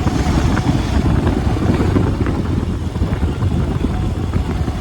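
Motorcycle engine running under way while riding, with wind rushing over the microphone.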